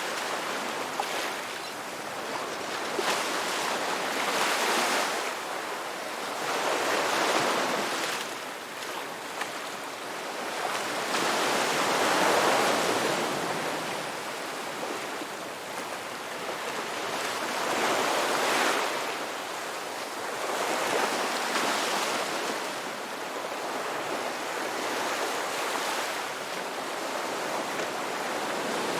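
Ocean surf on a beach: waves breaking and washing in, the hiss of the water swelling and fading every few seconds without ever dropping away.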